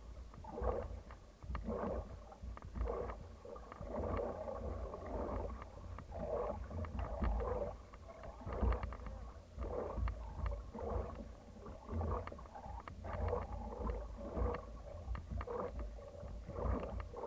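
Paddles of a Thai long-boat racing crew dipping and pulling through the water in rhythm, about one stroke a second, over a steady low rumble.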